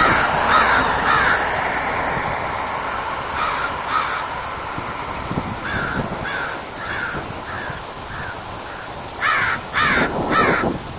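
Flock of black birds in a big tree calling: short repeated calls in groups, three near the start, two a few seconds in, a fading run of about six, then three louder calls near the end, over a steady background rumble.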